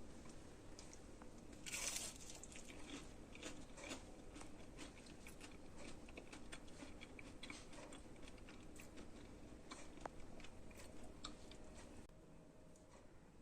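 Crispy fried potato snacks crunching: one louder crunch about two seconds in, then a run of small sharp cracks that die away near the end.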